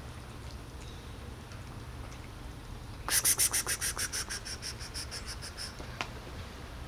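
A bird's rapid trill of short, high notes, about eight a second, starting about three seconds in, loudest at first and fading away over some two and a half seconds. A single click follows.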